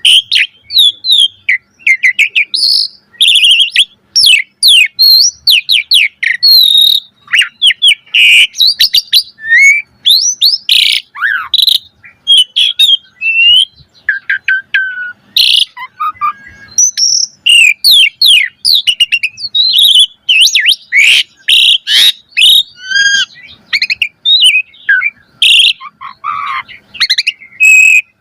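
Asian pied starling (jalak suren) in full, energetic song: a fast, unbroken run of varied whistles, chirps, rasping notes and sharp clicks, phrase after phrase with little pause.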